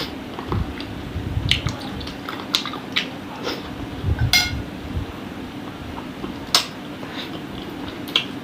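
Close-miked eating of chicken-feet satay in sauce: wet chewing and sucking with scattered sharp clicks, over a steady low hum.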